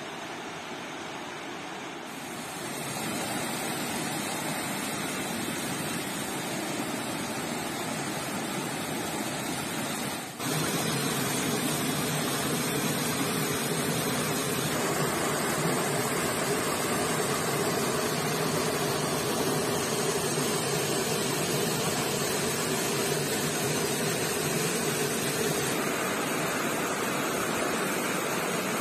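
Stream water rushing: a steady noise that grows louder about two seconds in, dips for an instant about ten seconds in, then carries on louder.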